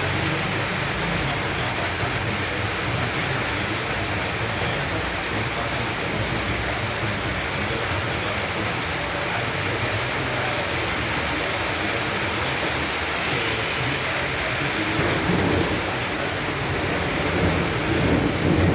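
Heavy downpour: a dense, steady hiss of rain, with a low rumble underneath and two brief louder swells, one about fifteen seconds in and one near the end.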